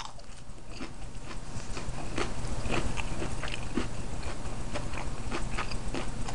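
A person chewing a crispy breaded spicy chicken strip close to the microphone: irregular crunchy clicks, a few a second.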